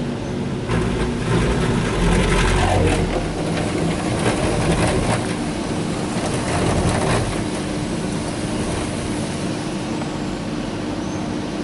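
Mark VII Aquajet GT-500 touchless car wash spraying water against the car, heard from inside the cabin, with a steady pump hum setting in a few seconds in. The spray is loudest over the first half and eases slightly toward the end.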